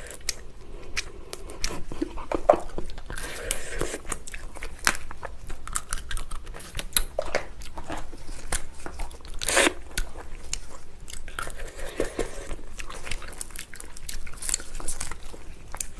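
Close-up eating of lobster: chewing and biting with crunches and irregular wet clicks and smacks throughout.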